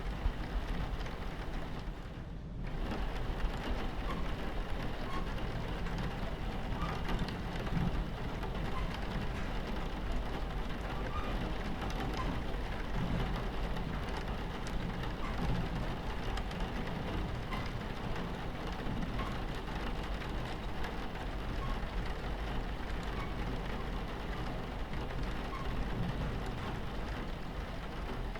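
Rain pattering on a train window over the steady low rumble of a train running on its tracks, with scattered drop ticks. The sound dips briefly about two and a half seconds in.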